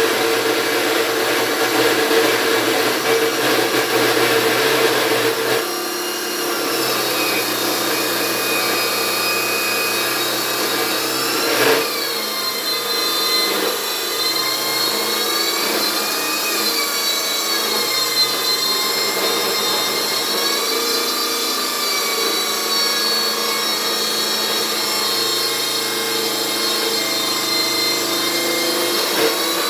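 Power tool with an abrasive cut-off disc cutting steel stock, running continuously with a whine that dips and rises in pitch as it bites. The sound shifts about six seconds in and again near twelve seconds.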